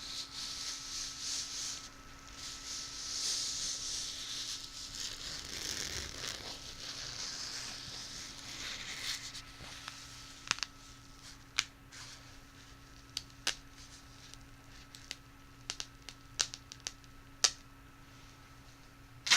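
An object handled close to the microphone for ASMR: a rustling, crinkling hiss for the first nine seconds or so, then scattered sharp clicks or taps, about a dozen, spread unevenly through the rest.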